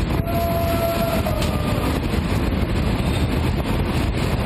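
Train running at speed, heard from its roof with heavy wind rushing over the microphone. A held tone sounds for about a second near the start.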